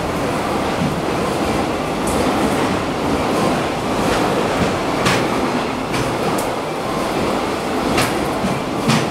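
Freight train container wagons rushing past at speed, a steady rumble of wheels on rail broken by a few sharp clacks as wheels cross rail joints.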